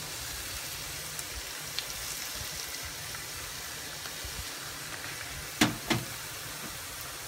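Raw beef chunks frying in oil in a hot pan with browned onions and garlic: a steady sizzling. About five and a half seconds in, two loud knocks come close together.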